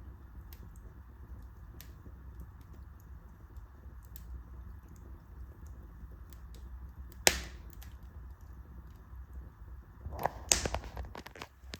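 Wood fire burning in a fireplace, with a low steady rumble under scattered small crackles. One sharp pop comes about seven seconds in, and a quick cluster of pops and crackles follows near the end.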